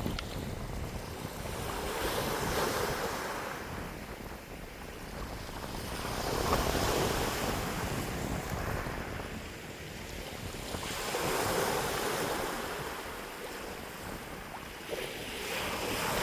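Wind blowing in gusts that swell and fade about every four to five seconds, with a low rumble of wind on the microphone.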